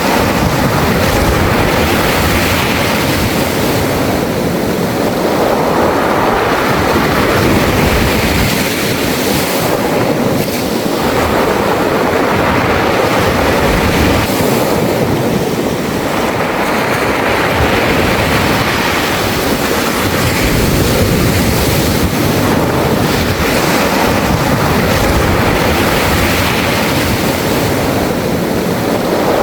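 Sea waves washing onto a beach of smooth, rounded pebbles, the surf and the stones sounding together as each wave runs up and drains back; the surge swells and eases every five or six seconds.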